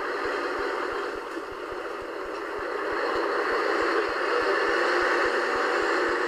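Scania 143H 450 truck's 14-litre V8 running, a steady rushing drone that dips slightly about two seconds in and then rises again.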